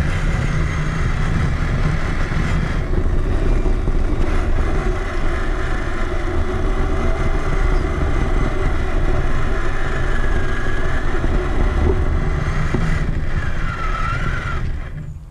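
Onboard sound of a Traxxas Summit electric 1/10-scale RC truck driving: heavy rumble of chassis vibration and ground noise on the top-mounted camera, with a faint electric motor and gear whine that rises and falls briefly near the end. The sound drops away sharply just before the end.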